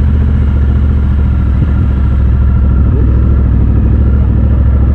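Triumph Bobber's 1200 cc parallel-twin engine running at low, steady revs under the rider, with little change in pitch.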